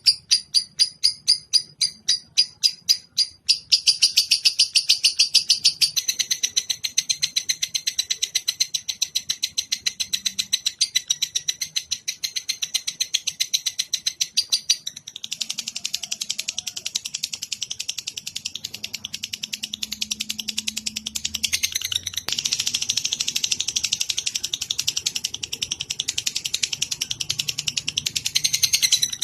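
A bird-song training (masteran) recording of a songbird singing a high, rapid chirping trill. The chirps start as separate notes about four a second, then run together into a fast unbroken trill that changes its pattern twice.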